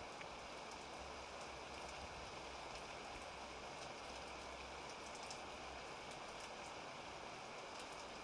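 Steady, faint rain falling, an even hiss with scattered light drop ticks, during a lull in a thunderstorm.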